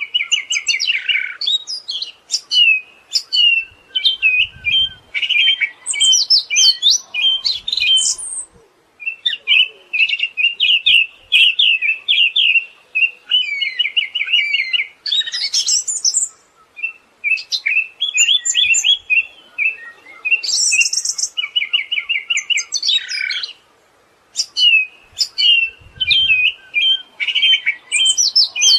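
Siberian thrush singing a long, busy song of fast trills and chattering notes, with brief higher whistles and a couple of short pauses.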